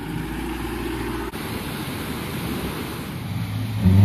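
Wind rushing over the microphone with a vehicle engine running underneath; near the end a Maruti Gypsy 4x4's four-cylinder petrol engine revs up loudly, rising in steps, as it pulls through deep snow.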